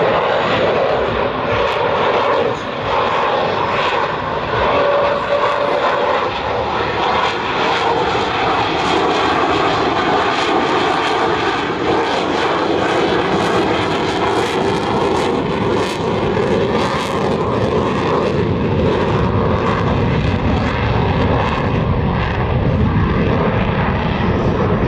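Jet engine noise from a USAF F-35A's single Pratt & Whitney F135 turbofan flying a display: a loud, continuous rumble whose tone slowly slides up and down as the jet moves, with a crackling edge through the middle stretch.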